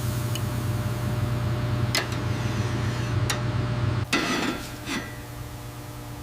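A steady low machine hum that cuts off about four seconds in. Light metallic clinks of silverware being handled come at intervals, with a short scraping rustle just as the hum stops.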